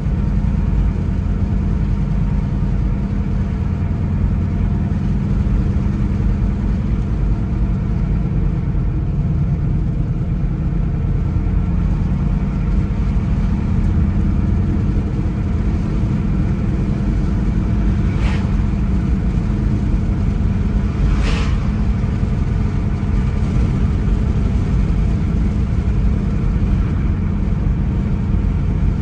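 A car driving along a road: steady low engine and tyre rumble. Two short sharp clicks come a few seconds apart past the middle.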